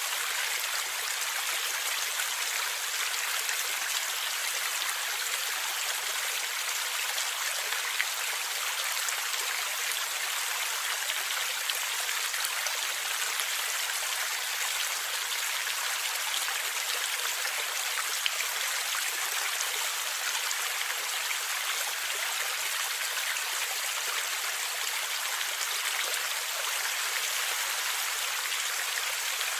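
Stream water running and gurgling steadily, an even hiss of flowing water with a few brief splash clicks.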